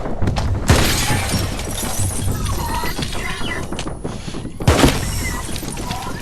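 Two loud crashes from the film's soundtrack, about a second in and again near the end, each followed by shattering, crackling debris, over an underlying film score.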